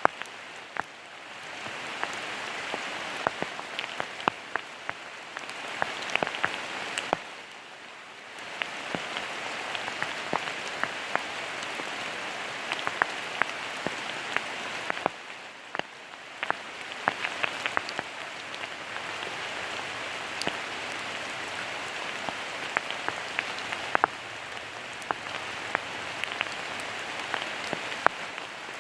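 Steady rain falling, a continuous hiss with many individual drops ticking sharply on nearby surfaces. The hiss eases briefly three times before picking up again.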